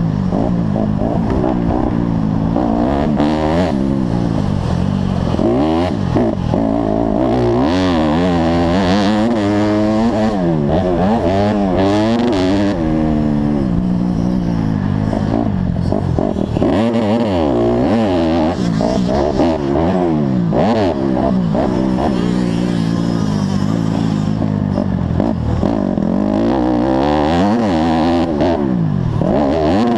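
Motocross bike engines revving hard, pitch climbing and dropping over and over with throttle and gear changes, several bikes overlapping, with scattered clattering knocks.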